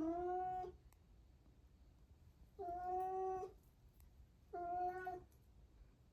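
A domestic cat meowing three times, each call under a second long and held at a steady pitch.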